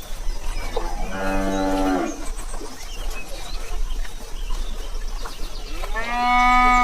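Cow mooing twice, each a long call of about a second; the second begins near the end.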